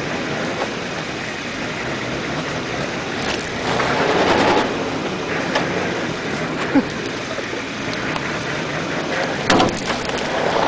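Engine of an off-road 4x4 running while the vehicle is stuck nose-down in a ditch, a rough, even rumble mixed with wind noise on the microphone, swelling louder about four seconds in. A sharp knock comes about nine and a half seconds in.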